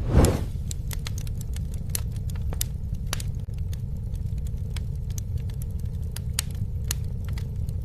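Campfire crackling: irregular sharp pops and snaps over a steady low rumble of burning, with a brief louder whoosh just after the start.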